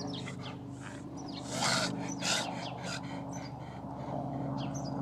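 A dog reverse sneezing: a run of quick, noisy breaths sucked in through the nose, the two loudest about one and a half and two and a half seconds in. A steady low hum lies underneath.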